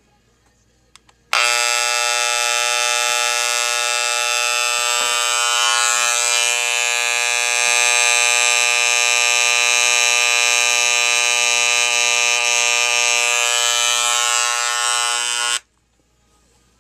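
Wahl CMCO electric hair clipper switched on, buzzing steadily for about fourteen seconds, then switched off. It is a test run after reassembly and blade adjustment.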